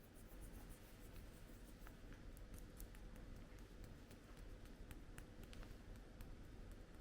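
Near silence: quiet room tone with many faint, light clicks and scratches scattered throughout.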